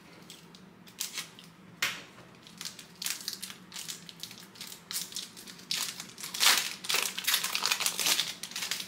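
Wrapper of a 2023 Panini Donruss Racing trading-card pack being torn open and crumpled by hand: irregular crinkling and crackling, loudest in a flurry about six to seven seconds in.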